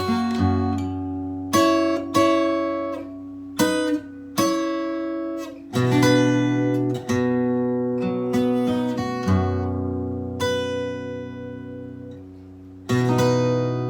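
Solo acoustic guitar playing a slow melody with plucked notes and strummed chords. Near the end one chord is left to ring and die away before the next is struck.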